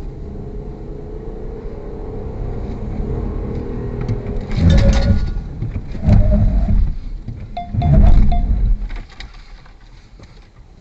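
A car's road and engine noise, then three loud thumps about a second and a half apart.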